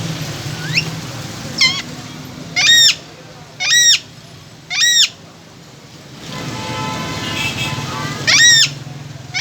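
Green Indian parrot giving a series of short, harsh calls, each arching up and then down in pitch. Two thinner calls come in the first two seconds, then three loud ones about a second apart, and a last loud one near the end.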